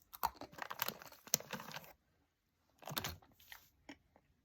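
Crunching of hard, crisp pretzels being bitten and chewed close to the microphone: a crackly run of about two seconds, then a shorter bout about three seconds in.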